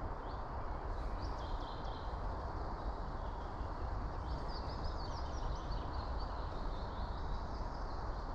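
Small songbirds chirping in short twittering phrases, about a second in and again more busily from about four to six seconds, over a steady low background rumble.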